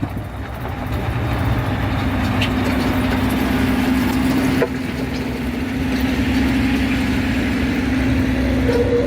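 A heavy vehicle's engine running steadily amid road traffic, with a steady hum setting in about a second and a half in and one short knock midway.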